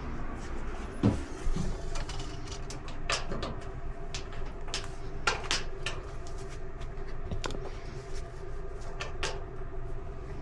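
Scattered clicks and knocks, irregular and a dozen or so in all, from hands and tools handling an Electrolux clothes dryer's parts and panels, over a faint steady hum.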